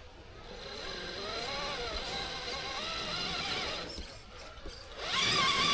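Electric motor and gearbox of an RC rock crawler whining, the pitch rising and falling with the throttle, then a louder, higher-pitched burst near the end.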